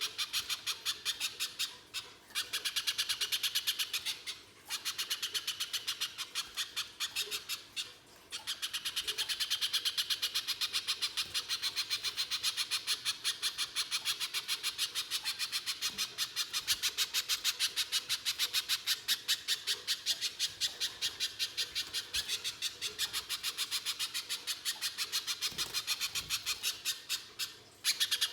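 Spiderhunter (pijantung pisang) calling a long, fast run of harsh, evenly repeated notes, several a second, broken by short pauses a few times.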